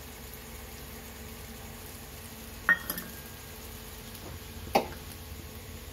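Bitter gourd fry sizzling steadily in oil in a metal wok as coconut powder is added, with two sharp metallic clinks of steel utensils about two seconds apart.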